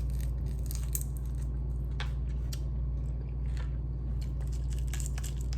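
Close-up chewing and biting on chicken feet, with small irregular crunches and wet clicks, over a steady low hum.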